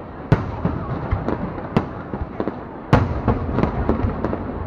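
Fireworks exploding overhead: a continuous rumble of bursts with sharp bangs, the loudest about a third of a second in and again about three seconds in, with lighter crackling pops in between.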